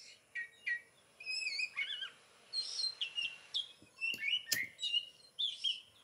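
Songbirds chirping and whistling: a run of short whistled notes and quick wavering trills, with a sharp click about four and a half seconds in.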